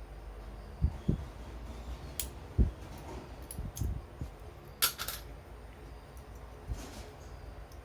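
Scattered light knocks and a few sharp clicks of hand work on parts, over a faint steady hum.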